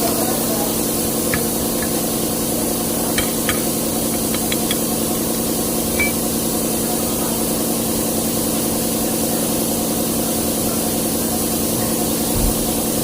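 Hino truck diesel engine idling steadily, with a few light metallic clicks about a second in and again around three to six seconds in.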